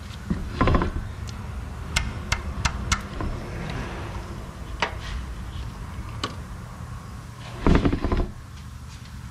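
Ratchet wrench clicking in two short runs, with scattered clinks of metal tools, while the 15 mm oil drain plug is worked loose.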